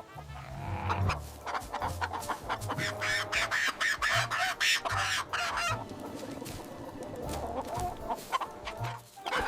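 Chickens clucking: a run of rapid short clucks, busiest in the first half.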